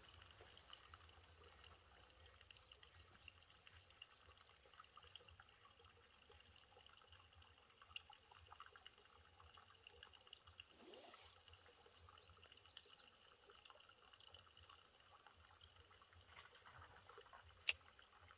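Near silence: faint background noise with scattered soft ticks, and one sharp click near the end.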